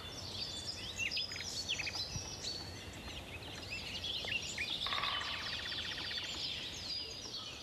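Outdoor birdsong: several small birds chirping and whistling in short phrases, with a fast, dry rattling trill about five seconds in.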